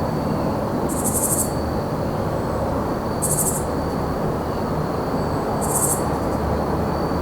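Evening insects: a steady high cricket trill, with three short, very high rasping insect calls about two and a half seconds apart. Underneath is a steady low rumble of distant traffic.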